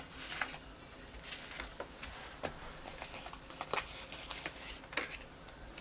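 Faint, irregular light clicks and paper rustles from sticker sheets and paper being handled at a desk.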